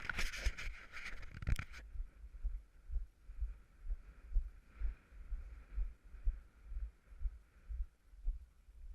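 Footsteps trudging through deep snow, heard as low thuds about two a second, with a short burst of crunching and rustling in the first second or two.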